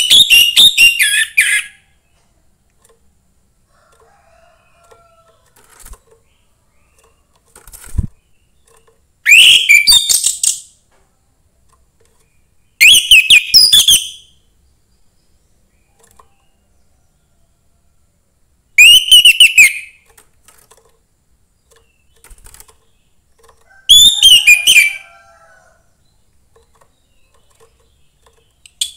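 Orange-headed thrush singing: five loud phrases of rapid, high, sliding whistled notes, each about a second and a half long, separated by several seconds of quiet.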